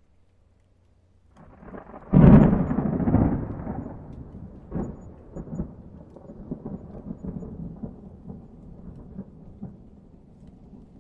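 A thunderclap: a low rumble builds, then a sharp loud crack about two seconds in. A long rolling rumble follows, crackling and fading slowly.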